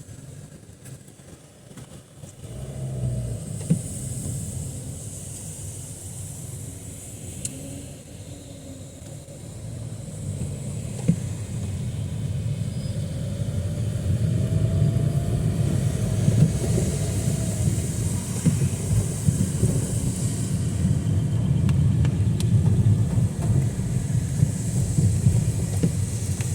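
Road traffic on a rain-soaked street: vehicle rumble that grows louder from about halfway in, with tyre hiss on the wet road as vehicles pass.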